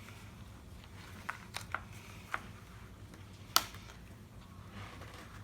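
Paper and card of a handmade journal being handled: a few light taps and ticks, one sharp click about three and a half seconds in, and a soft paper rustle near the end.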